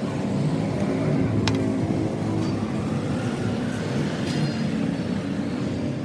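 A motor or engine running steadily, with a sharp click about a second and a half in.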